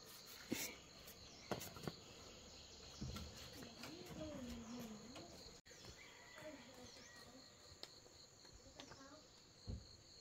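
Faint, steady chirping of insects such as crickets, with a few soft knocks.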